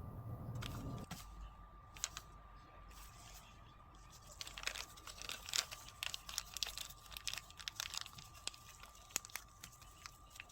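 Crisp cracking and crunching of a baked matcha ganache cookie, a dense run of sharp crackles in the middle of the stretch after a few single cracks.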